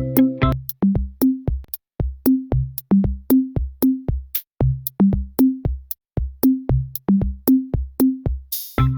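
Electronic background music with a steady drum-machine beat and short bass notes. The held chords drop out about half a second in, and a brief noise sweep near the end brings them back.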